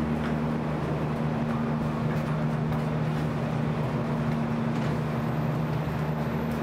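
Steady machinery hum with two low tones over an even rushing-air hiss.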